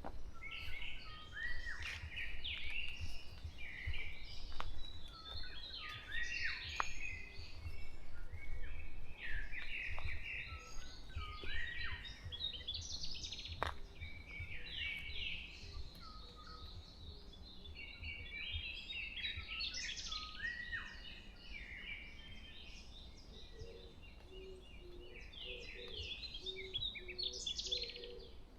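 Dawn chorus of several songbirds singing over one another in a forest, with chirps and warbled phrases all the way through. A low, repeated hooting call joins in near the end, over a faint low rumble.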